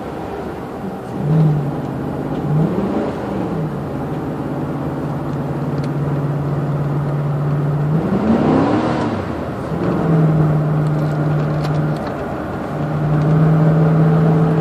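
2005 Chevrolet K1500 pickup driving, with a steady engine drone. Twice, about two and a half seconds in and again about eight seconds in, the engine note rises and falls back as the automatic transmission changes gear. The transmission is failing: it slips and skips gears.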